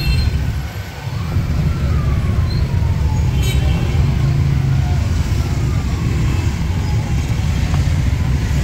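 Road traffic noise: vehicle engines running, with a heavy, steady low rumble and a couple of slowly falling engine tones as vehicles pass.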